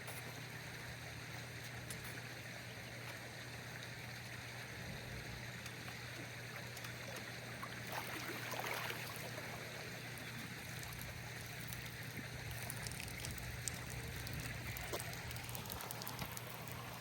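Steady running-water noise with a low, steady hum underneath, swelling slightly about halfway through.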